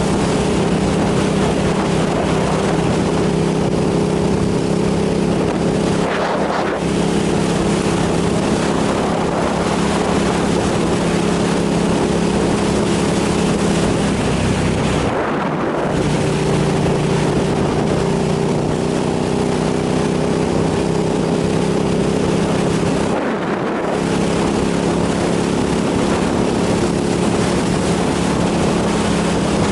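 Motorcycle engine running steadily at speed under a steady rush of wind on the microphone. The engine note dips briefly three times, about 6, 15 and 23 seconds in.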